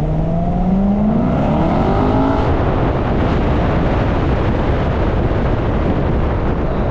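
An engine rising in pitch as it speeds up over the first two seconds or so, then a steady rush of running noise.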